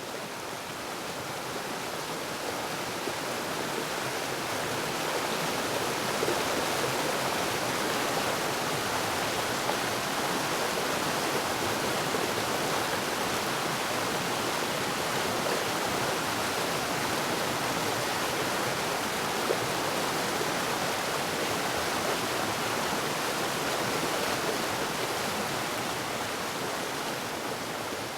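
Waterfall: a steady rush of falling water with no distinct splashes. It swells over the first few seconds and eases slightly near the end.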